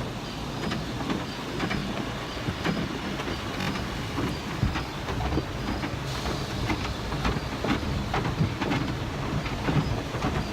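Ryko Velvet Touch 2000 car wash machinery working over a car: a steady rumble with many irregular slaps and knocks, and a faint high tone repeating about twice a second.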